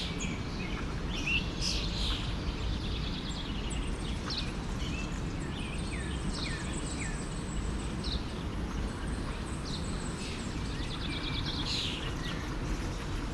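Forest stream running with a steady low rush, while several songbirds chirp and trill over it, with many short calls and a couple of fast trills.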